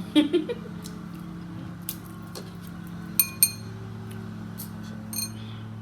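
Hard clinks and taps of tableware during a meal: a quick cluster of clicks near the start, then two sharp ringing clinks about three seconds in and a softer pair near the end, over a steady low hum.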